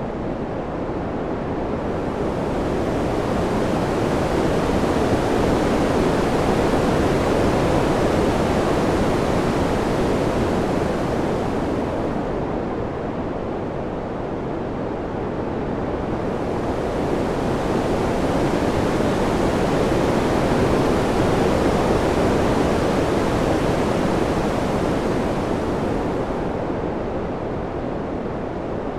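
Wind blowing in a steady rush that slowly swells and eases, building twice and falling back, with a brighter hiss at each peak.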